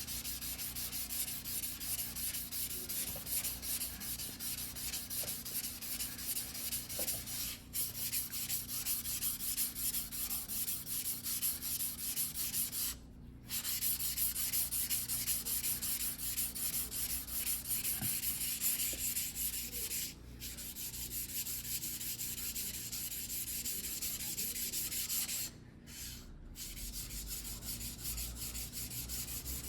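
A single-bevel white-steel fuguhiki sashimi knife being hand-sharpened on a wet whetstone. The blade is pushed back and forth in quick, even strokes that make a steady gritty hiss, with a few short pauses between runs of strokes.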